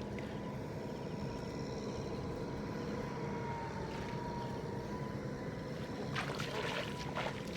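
Tractor engine running steadily at a constant pitch, with a few short clicks near the end.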